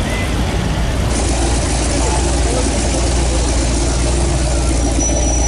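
Car engines idling and creeping along in slow cruising traffic, a steady low rumble.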